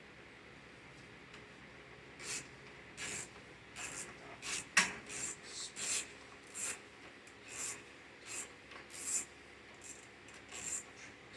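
A series of short scraping or rubbing strokes, roughly one or two a second, with one sharper click about five seconds in: hand work on the lawn mower's parts.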